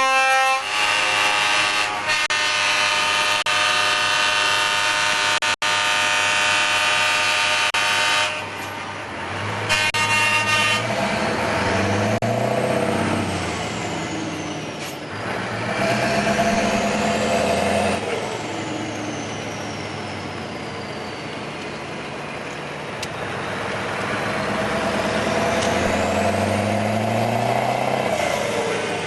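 Truck air horn sounding a long steady chord for about eight seconds, then a short second blast, followed by a Scania 143M 500's V8 diesel accelerating through several gear changes, its pitch rising and dropping with each shift, with a high whistle sweeping up and down.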